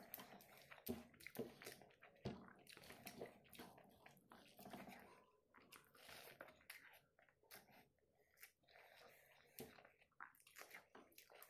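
Faint, close mouth sounds of chewing a large mouthful of rice and egg curry: irregular wet smacks and clicks. There is also soft squishing as fingers mix rice on the plate.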